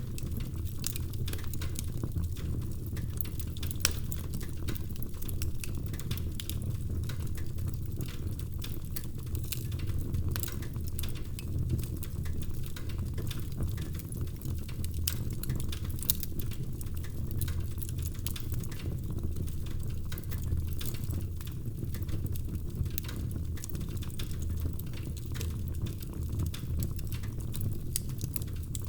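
Fire crackling in a fireplace: frequent irregular pops and snaps over a steady low rumble of burning.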